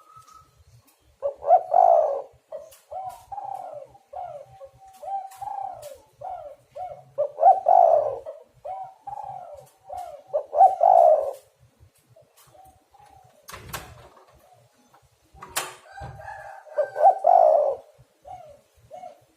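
Spotted doves cooing in repeated rhythmic phrases, the call used to lure wild doves and get them calling. Two sharp clicks come a little past the middle.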